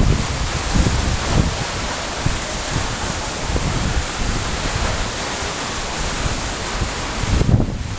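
Steady rush of falling water from a waterfall, with wind buffeting the microphone in uneven gusts. The rushing drops out briefly near the end.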